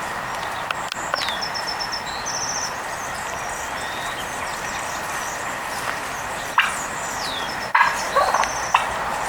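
Wild turkey gobbling in a short rattling burst near the end, over a steady background hum, with small birds giving brief high trills and chirps throughout.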